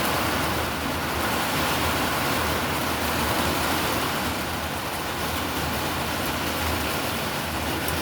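Heavy thunderstorm rain pouring down hard, a steady, even rush of noise.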